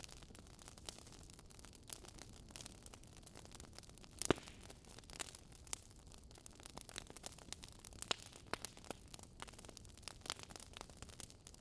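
Wood fire crackling, with irregular small pops and one louder snap about four seconds in.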